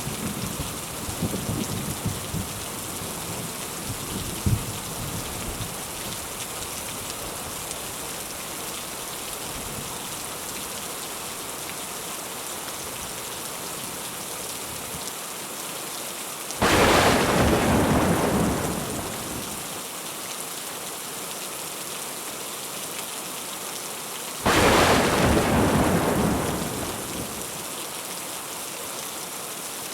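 Steady heavy rain with low thunder rumbling away over the first few seconds. Two sudden thunder cracks follow, one just past halfway and another later on, each starting sharply and rolling off over two or three seconds.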